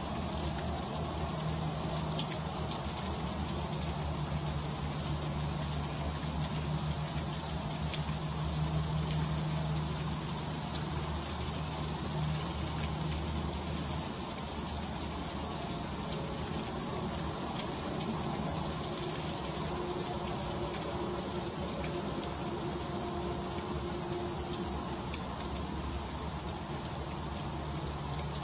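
Freezing rain falling steadily, a dense patter of fine ticks on icy surfaces. A faint low drone sits under it for the first half or so.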